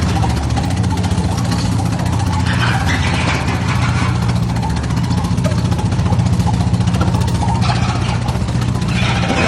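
An engine running steadily and loudly, with a fast, even low hum, plus brief noisier sounds over it about a third of the way in and near the end.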